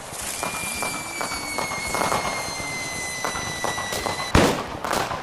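Firecracker going off: a high whistle falling slowly in pitch for about three and a half seconds over hissing and crackling, cut off by one loud bang about four seconds in.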